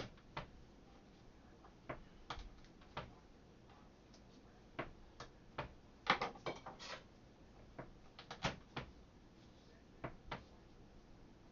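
Irregular sharp knocks and clicks as garlic cloves are smushed open on a kitchen work surface and handled, with a busier run of louder knocks just past the middle.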